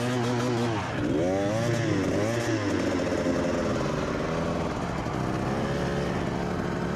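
Dirt-bike engine revving, its pitch rising and falling in quick swells about a second in, then running at a steadier pitch, as the bike works up a steep, muddy hard-enduro climb.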